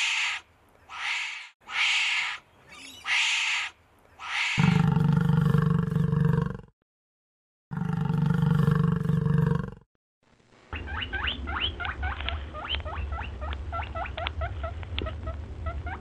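A run of short, hoarse, breathy calls, about one a second. Then a water buffalo lows twice, two long, deep, loud calls about a second apart. After a pause comes a quick series of many short, high chirps.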